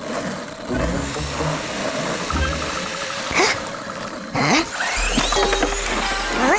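Cartoon sound effect of a small motorised toy car's engine running, with two quick sweeping whooshes about three and a half and four and a half seconds in, over background music.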